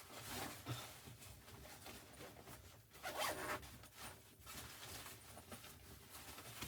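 Faint short rasping, rustling strokes, the loudest about three seconds in.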